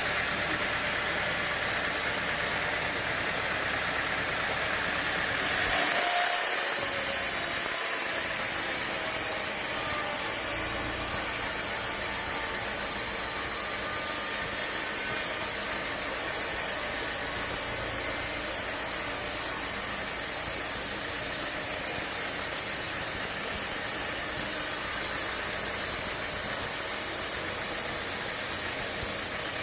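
Sawmill machinery running: a steady engine-like mechanical noise, with a loud hiss coming in suddenly about five seconds in and carrying on.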